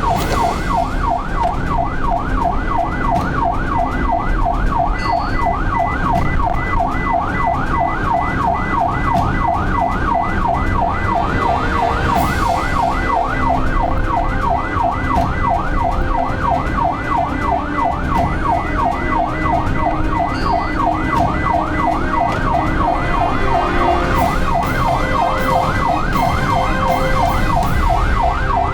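Ambulance siren in fast yelp mode, its pitch sweeping up and down about three times a second, over the low rumble of the vehicle on the road.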